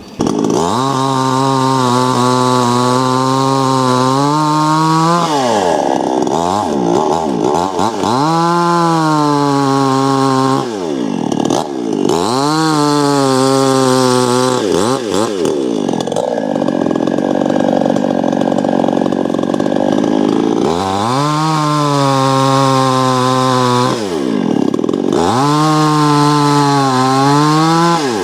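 Two-stroke chainsaw running at high revs, its pitch repeatedly dropping and climbing back about every four to five seconds as the throttle is let off and opened again, cutting firewood.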